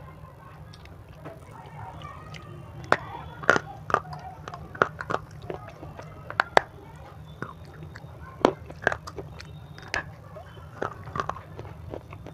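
Close-miked biting and chewing of a hard, chalky white lump eaten as crunchy 'stone'. Irregular sharp crunches begin about three seconds in, with softer mouth sounds before them.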